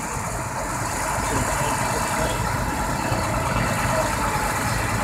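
Diesel engine of a John Deere 9630 articulated four-wheel-drive tractor running steadily as it drives slowly past, growing a little louder about a second in.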